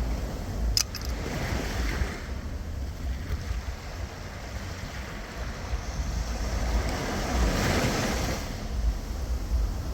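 Sea waves washing, with wind buffeting the microphone; the surf swells up twice, about a second in and again around seven to eight seconds in. A single sharp click just under a second in.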